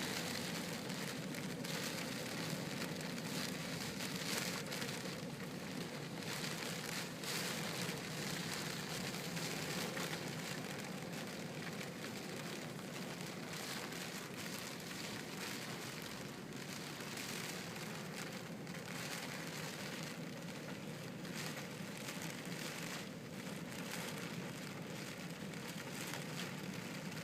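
Steady rain falling, an even hiss with brief louder spatters here and there.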